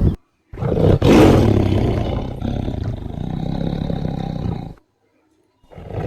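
A large animal roaring: a long, loud, rasping roar that fades, then cuts off abruptly near the end, after which another roar begins.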